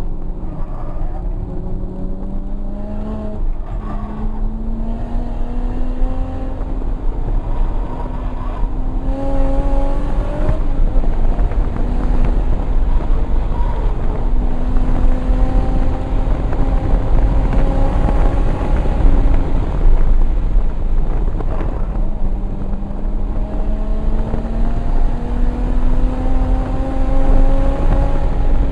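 Single-turbo inline-six of a 1994 Toyota Supra under hard acceleration. The engine note climbs steadily in pitch through each gear and drops back at the upshifts. About two-thirds of the way in it eases off briefly, then pulls again.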